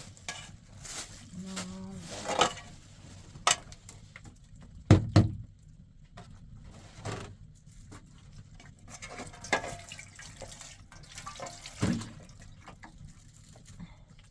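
A series of irregular knocks and clatters, a few seconds apart, with the loudest double knock about five seconds in, over quiet handling noise.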